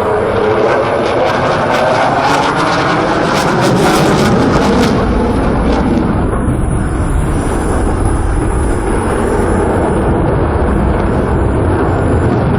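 Dassault Rafale fighter's jet engines passing low and loud: a whine falling in pitch near the start, crackling for the first few seconds, then settling into a steady low rumble.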